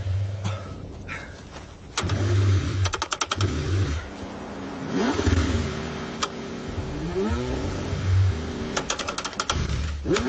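Car engine cranking over and over in freezing cold, struggling to start. Low rumbling spells alternate with runs of rapid clicking, and the engine's pitch rises a few times partway through.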